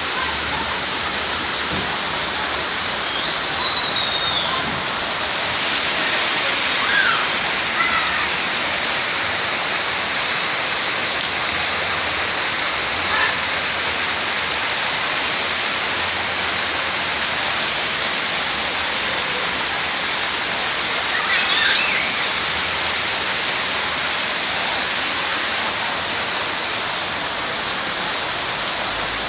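Steady rain falling, a continuous even hiss, with a few faint short chirps over it.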